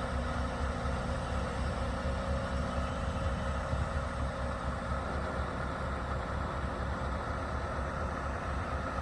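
Scania S730's V8 diesel engine idling steadily.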